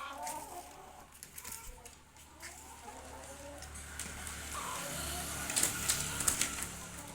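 Broiler chickens clucking, mostly in the first couple of seconds, then a stretch of rustling with sharp clicks that is loudest about six seconds in.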